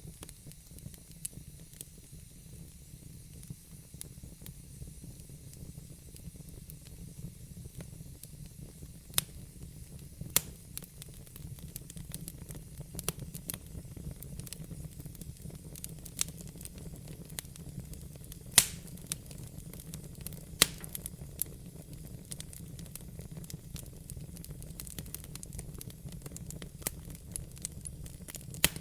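Fireplace fire crackling: a steady low rumble and soft hiss of the flames, broken by scattered sharp pops at irregular intervals, a few of them much louder than the rest.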